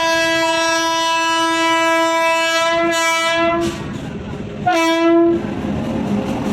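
Train horn sounding one long blast of about three and a half seconds, then a short second blast about a second later, with the rumble of the train continuing after it.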